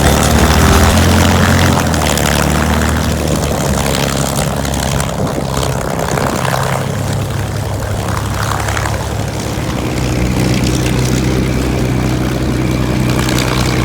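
Propeller aircraft engine running loudly, a steady low drone with a rushing noise that swells and eases partway through.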